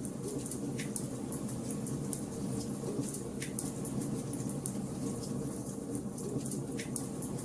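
Wood fire burning in a fireplace: a steady low rush of flames with many fine crackles, and a few sharper pops about a second in, near the middle, and near the end.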